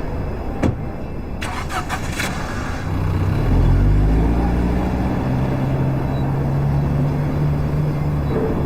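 A sharp knock and a quick run of clicks, then a car engine starts about three seconds in and keeps running steadily.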